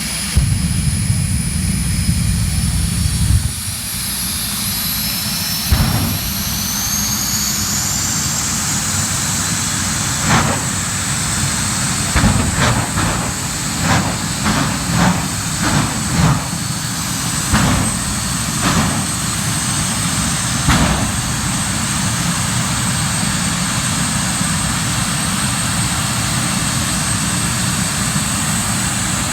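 Jet dragster's turbine engine running, its high whine climbing in pitch over several seconds and then holding steady. About a third of the way in comes a run of about a dozen sharp bangs over roughly ten seconds.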